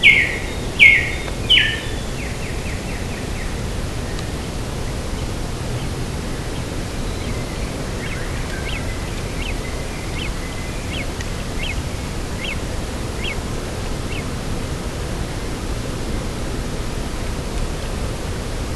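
Steady rushing wind across open coastal grassland, with bird calls: a few loud, sharp descending calls in the first two seconds, then a fainter series of short calls about twice a second from roughly 8 to 14 seconds in.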